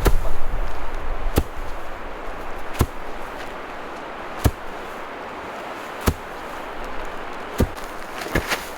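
Sharp knocks, one about every one and a half seconds, like repeated strikes. A low rumbling noise under them dies away in the first second and a half.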